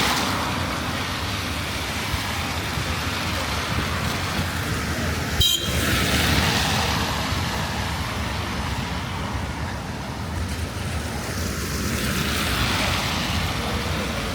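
Road traffic passing on a wet road, cars swishing by every few seconds over a steady low rumble, with one sharp click about five seconds in.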